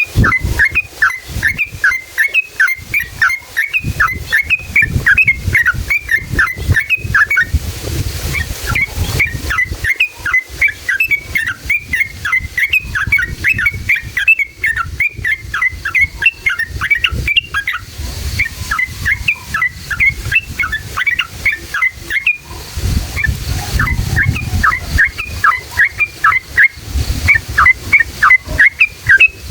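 Yellow-vented bulbul (trucukan) singing in long, rapid runs of sharp chattering notes, several a second, broken by a few short pauses, over a low background rumble.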